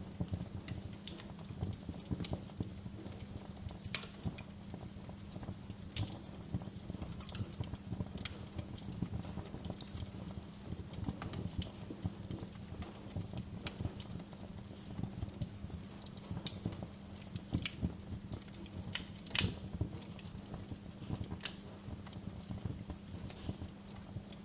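Wood fire crackling in a fireplace: irregular pops and snaps over a low steady hum, with one sharper pop late on.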